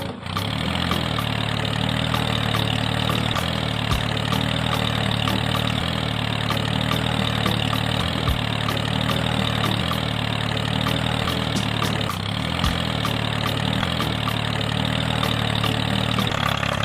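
Small engine of a homemade mini tractor running steadily at an even speed, with a fast regular ticking and a few brief low thumps.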